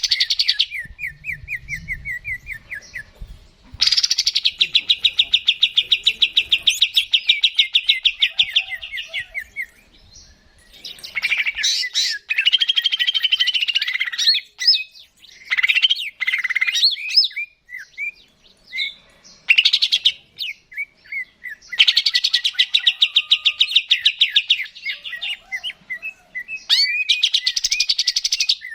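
Cucak ijo (green leafbird) singing a varied, continuous song: long bouts of very rapid, buzzy trilling alternating with quick chirps and short whistled phrases.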